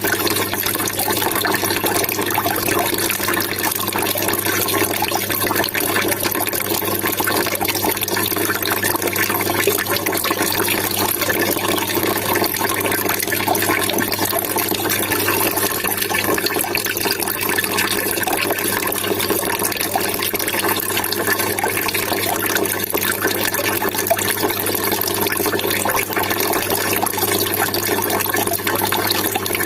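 Water trickling and splashing steadily, an even, unbroken babble.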